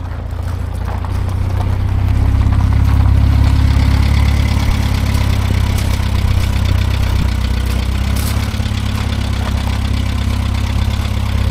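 An old car's engine idling at close range, steady and even, getting louder about two seconds in and then holding.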